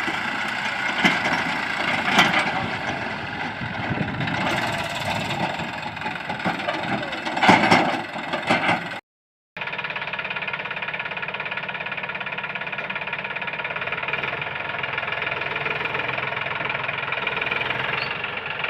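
Tractor diesel engine running, with sharp knocks or shouts over the first half and a louder burst about seven and a half seconds in. After a brief cut, the engine note runs steady with a fast, even firing beat.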